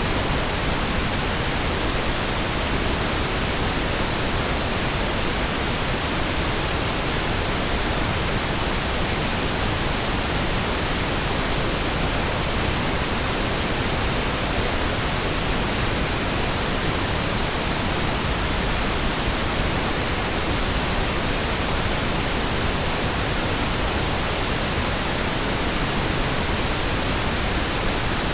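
Steady pink noise, an even hiss across all pitches with no changes or events.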